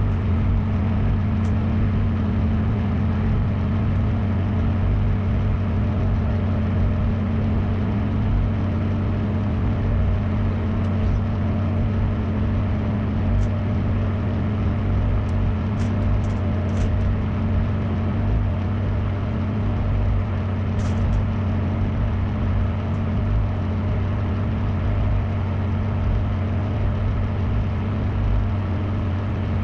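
Microwave oven running with hair wax inside: a steady low electrical hum, with a few faint short clicks in the middle stretch.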